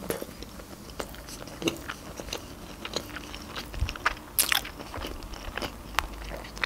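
Close-miked chewing of a mouthful of seaweed salad: soft wet crunches and mouth clicks, with the loudest cluster of clicks about four and a half seconds in and another sharp click at six seconds.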